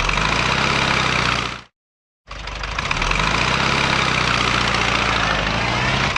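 Engine sound effect of a heavy vehicle, running in two stretches: about a second and a half, a half-second gap, then about four seconds, each cutting off abruptly.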